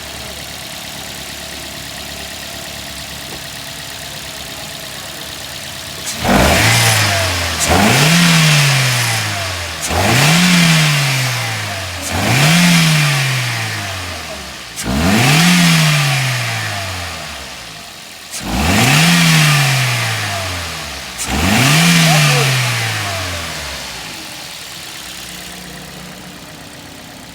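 Toyota GLi engine idling, then revved seven times in a row, each rev climbing quickly and dying back slowly to idle. The valve tappets have just been set, and the engine is running without the tappet noise it had before.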